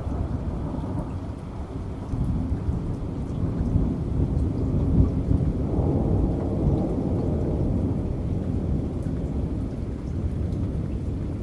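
Rolling thunder rumbling over rain, the low rumble swelling a few seconds in and slowly easing off.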